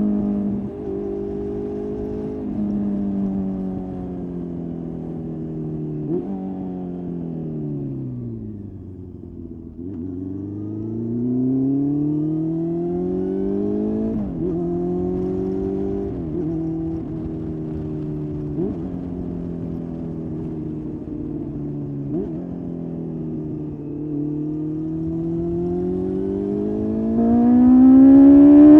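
Honda CB400 Super Four's inline-four engine through a Blueflame exhaust, under way: the note climbs with throttle and drops sharply at each gear change, sinks to a low note around eight to ten seconds in, then climbs through the gears again and gets louder near the end.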